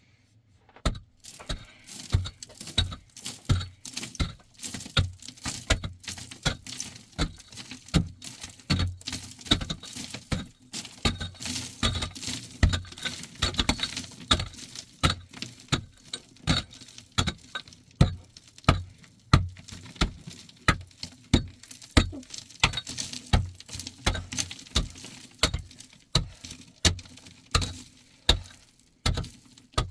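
Footsteps at a steady walking pace, about three steps every two seconds, each with a gritty crunch.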